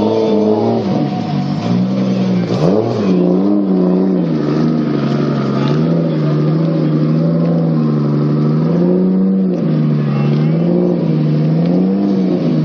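Toyota Supra Mk4 Turbo's inline-six engine being revved in repeated short blips, rising and falling in pitch about once every one and a half seconds.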